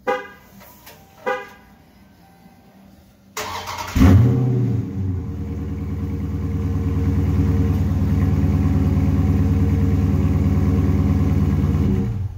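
Two short chirps, then the 392 HEMI V8 of a 2021 Dodge Charger Scat Pack Widebody cranks, fires with a quick rev flare and settles into a loud, steady idle, which cuts off just before the end.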